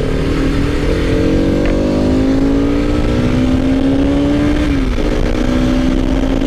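Motorcycle engine pulling away and accelerating, its pitch climbing steadily, then dropping suddenly about five seconds in as the rider shifts up, with heavy wind rumble on the microphone.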